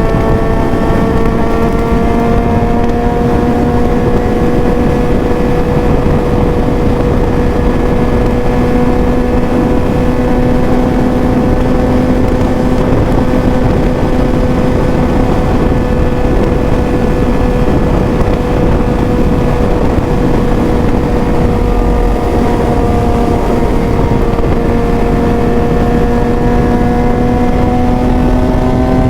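Suzuki GSX-S750 inline-four through a full aftermarket exhaust (Ezaki header, SC Project silencer) running at steady cruising revs, its pitch starting to rise near the end as it accelerates. Heavy wind noise on the microphone runs underneath.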